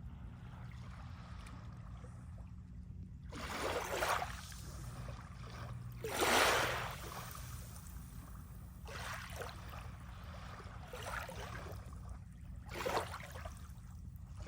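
Small sea waves washing in on the shore, a swell of rushing water every two to three seconds, five in all, the biggest about six seconds in.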